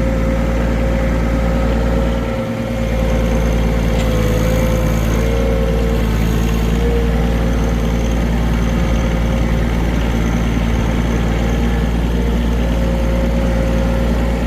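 Compact utility tractor's diesel engine running steadily, with a high whine over it that wavers in pitch for a few seconds. The engine dips briefly about two seconds in.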